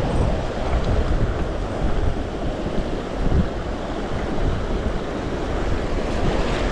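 Mountain stream water rushing steadily, with uneven low rumbles of wind on the microphone.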